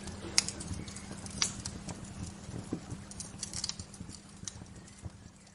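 Wood fire crackling, with irregular sharp pops and snaps over a steady low rush, gradually fading out.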